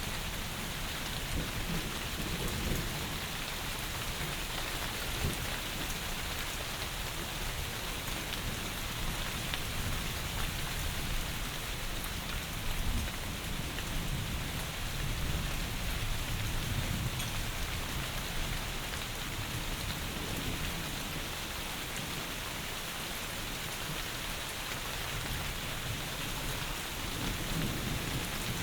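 Heavy rain falling steadily in an even hiss, with low rumbling swells that come and go underneath, strongest in the middle and again near the end.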